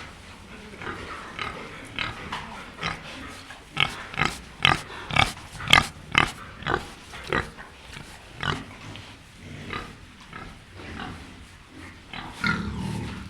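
Pig grunting in a run of short grunts, about two a second, loudest in the middle and sparser toward the end.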